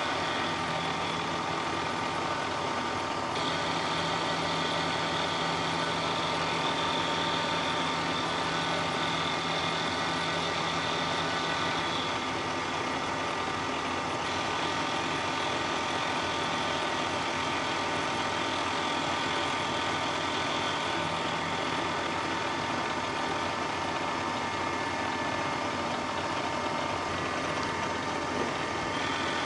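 Milling machine taking a facing cut across an aluminum block with a large end mill. The motor hum is steady, and a higher cutting whine steps up and down a few times.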